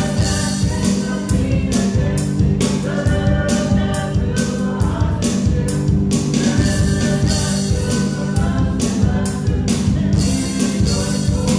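Church worship music: singing over a band with drum kit and sustained bass, keeping a steady beat.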